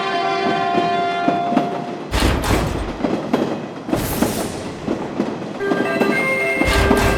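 A train horn sounding steadily for about two seconds, then a train passing with a rhythmic clatter of wheels. A Japanese level-crossing bell rings with a repeating tone from about five and a half seconds in.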